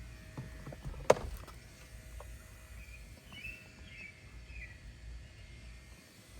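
Low background noise with scattered small clicks and one sharp click about a second in, and a few faint bird chirps near the middle.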